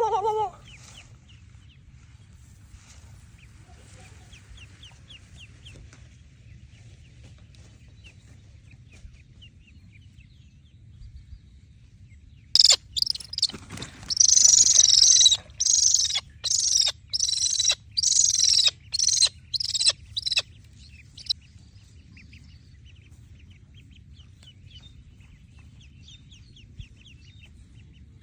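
Duckling peeping: scattered faint peeps, then, about halfway through, a run of a dozen or so loud, high peeps over some eight seconds, before it falls back to faint peeping.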